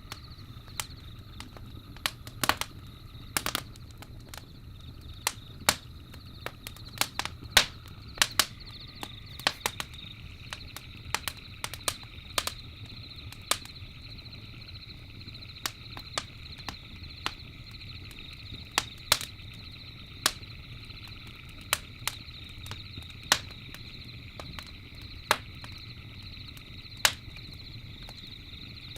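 Campfire crackling, with irregular sharp pops a few times a second over a low steady rumble and a steady high-pitched trill.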